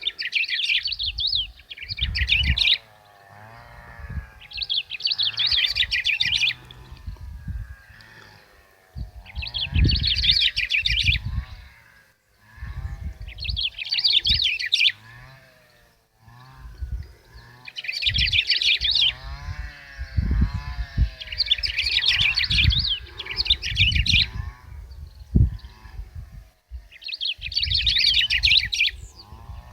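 Black-throated grosbeak (bico-de-pimenta) singing in repeated phrases of rapid, high notes, each lasting a second or two, about every three to four seconds, with low wind rumble on the microphone.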